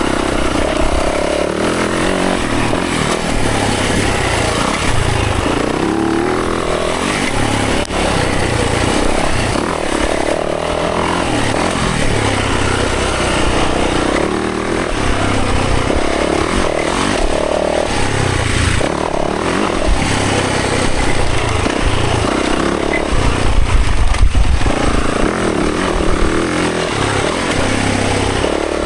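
Dirt bike engine running continuously while being ridden on a trail, revving up and down as the throttle changes. It is loudest, with a deep low rumble, a little past two-thirds of the way through.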